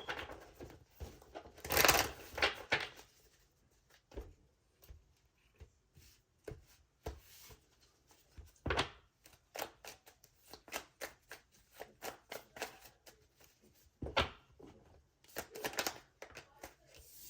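Tarot cards being shuffled and handled: an irregular string of soft card clicks and taps, with louder bursts of shuffling about two seconds in and again near the end.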